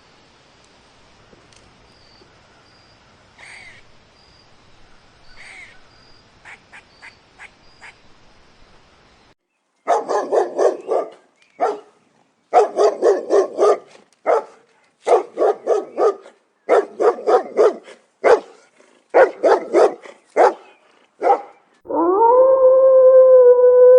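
A dog barking in quick runs of short, sharp barks, several a second, after a faint stretch with a few soft calls. Near the end the barking stops and a long, held, slightly wavering tone begins.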